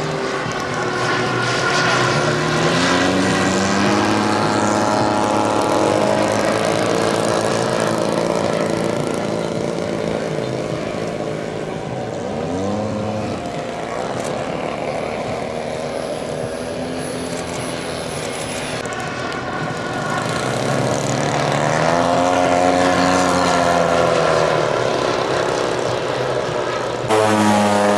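Propeller engines of giant-scale radio-control warbird models flying by, their pitch rising and falling with each pass, over about three passes. About a second before the end the engine sound jumps suddenly louder.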